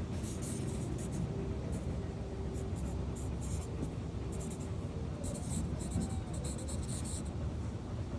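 Short, irregular scratching strokes over a steady low rumble.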